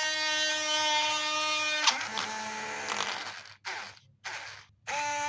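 Small homemade DC-motor drill running with a steady whine. About two seconds in there is a click and the pitch drops; the motor then stops, is switched on in two short bursts, and runs steadily again near the end.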